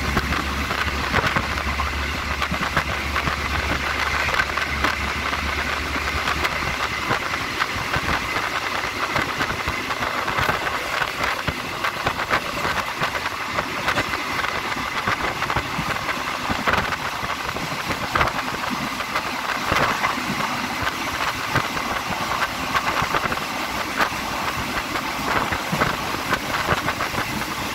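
Inside a moving third-class diesel passenger train: the carriage gives a steady rattling rumble on the track, with many irregular clacks and knocks. A low hum underneath stops about seven seconds in.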